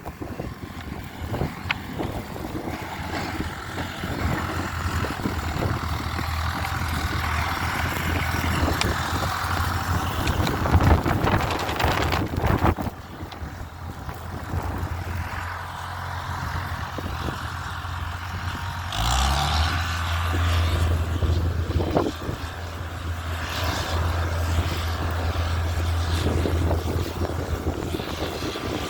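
Engine running steadily with rushing noise and scattered knocks over it; about two-thirds of the way through its pitch rises briefly and settles into a louder, steady drone.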